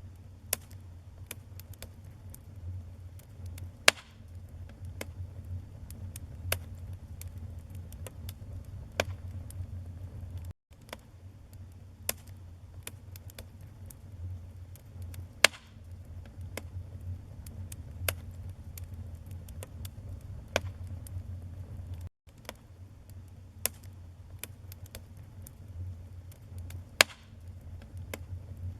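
Wood fire crackling in a fireplace: a steady low rumble of flames with frequent sharp crackles and a few louder pops. The sound cuts out for an instant twice.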